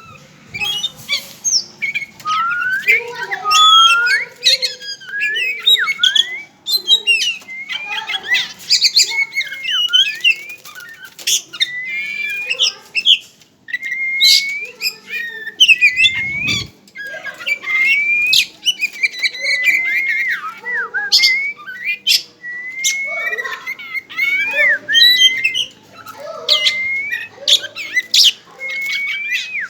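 Oriental magpie-robin (kacer) singing a continuous, varied song of whistled rising and falling notes mixed with short sharp chips. There is a low thump about halfway through.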